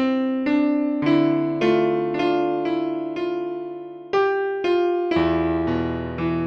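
Solo piano music: a slow melody over chords, notes struck about every half second and left to ring. About four seconds in there is a brief pause before a fuller chord with deeper bass notes enters.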